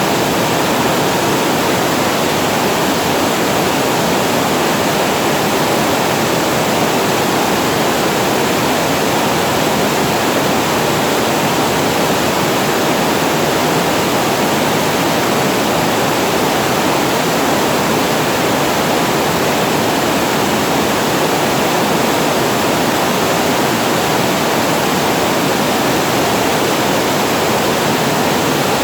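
Water pouring over a reservoir weir: a steady, loud rush of falling water that does not change.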